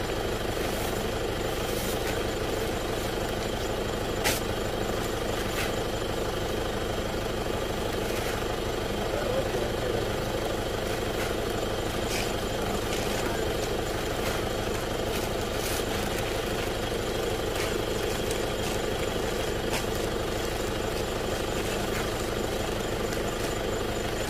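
Vehicle engine idling steadily, with a few short crinkles of plastic bags being handled.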